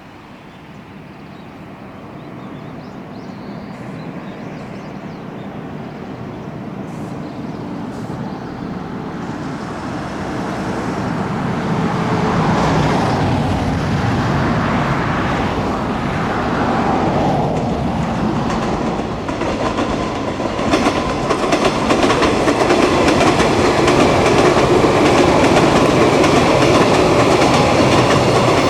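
381 series Yakumo limited express electric train approaching, growing steadily louder over about twelve seconds, then passing close by with the rhythmic clatter of its wheels over the rail joints.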